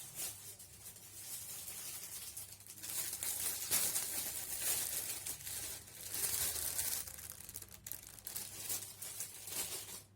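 Crinkling and rustling of something being handled, uneven and loudest in the middle, starting and stopping abruptly.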